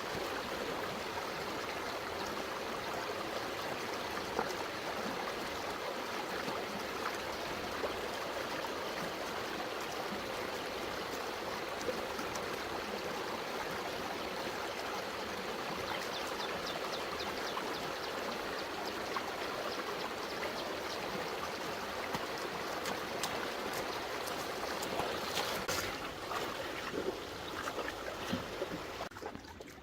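Shallow stream water running steadily, a continuous rushing trickle. Near the end a few short knocks come through as the rush drops away.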